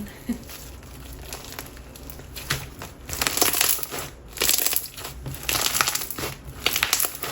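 Jelly slime packed with lava rocks being squeezed and pressed by hand: crackly crunching, soft at first, then several loud bursts from about three seconds in.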